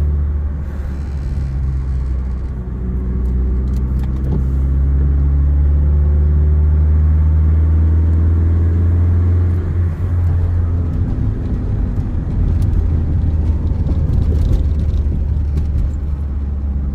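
Saturn Ion car driving, its engine and road noise making a steady low drone. The engine note rises slowly over the first several seconds. About ten seconds in, the note eases off and a rougher, noisier sound takes over.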